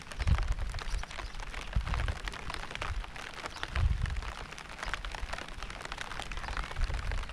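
Steady rainfall, a dense patter of drops striking a surface, with four heavy low rumbles swelling up: just after the start, at about two seconds, at about four seconds, and near the end.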